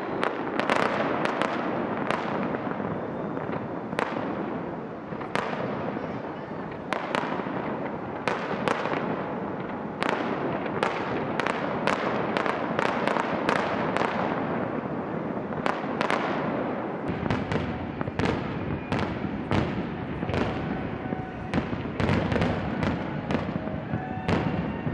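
Aerial fireworks shells bursting one after another, roughly one or two sharp bangs a second over a continuous crackle. About two-thirds of the way in, a steadier low rumble joins underneath.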